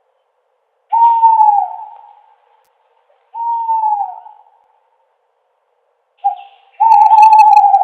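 Owl hooting: two falling hoots a couple of seconds apart, then after a pause a short hoot and a longer, harsher one near the end.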